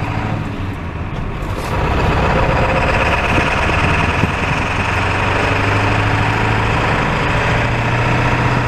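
Truck engine running steadily, getting louder about two seconds in and staying there.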